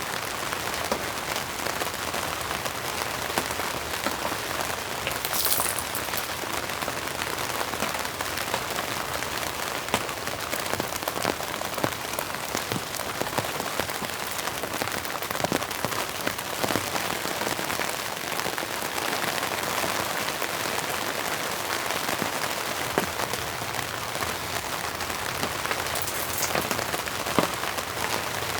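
Steady rain falling, with many individual drops ticking on a surface. A brief high hiss cuts in about five seconds in and again near the end.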